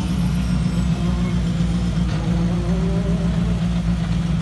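A rally car's engine idling steadily, with a faint rising engine note behind it about halfway through.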